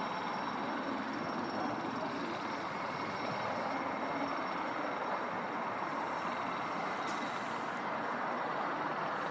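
Jet airliner's engines heard across the airfield: a steady rush of engine noise with a faint high turbine whine over it.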